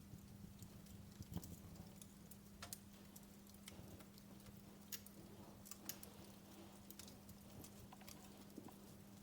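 Wood fire crackling softly: irregular sharp pops and ticks, a few louder snaps among them, over a faint steady low hum.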